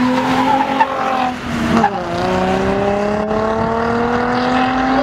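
Car engine under hard acceleration: held high at first, its pitch drops at a gear change about two seconds in, then climbs steadily.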